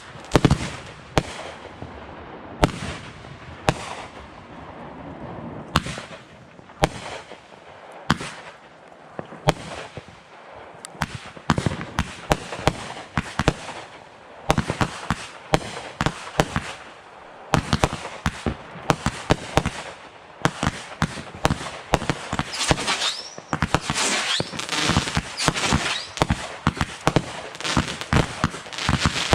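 Fireworks going off: many sharp bangs and pops at irregular intervals, coming thicker in the second half, with a spell of dense crackling about three-quarters of the way through.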